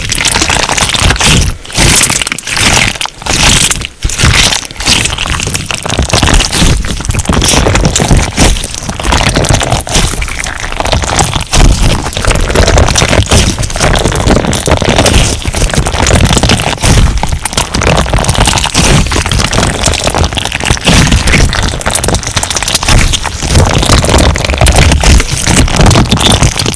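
Crunch slime being squeezed and pressed by hand, giving dense, continuous crackling and popping. There are a few short breaks in the first few seconds.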